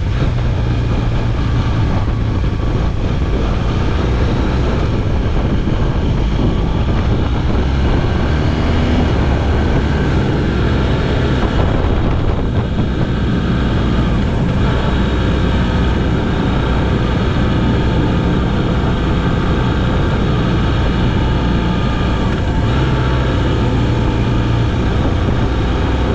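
Motorcycle running at a steady cruise, engine drone mixed with wind and road noise, holding an even level throughout.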